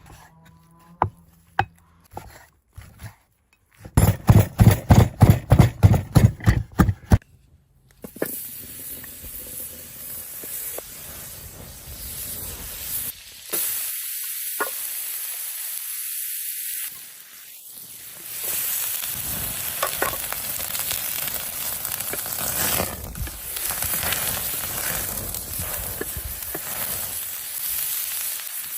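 A quick run of loud knocks, about four a second, then mushrooms start sizzling as they sauté in a pan, a steady frying hiss with occasional stirring scrapes.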